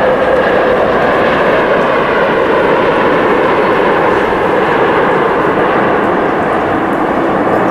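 Airplane engine noise, loud and steady, with faint tones in it that drift slowly lower.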